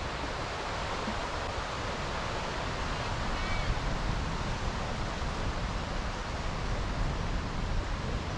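Wind rushing over the microphone of a moving bicycle, with a gusty rumble low down and a steady haze of street noise.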